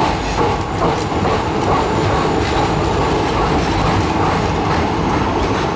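Indian Railways sleeper-class passenger coaches rolling past as the train pulls out, wheels clacking over rail joints under a steady rumble.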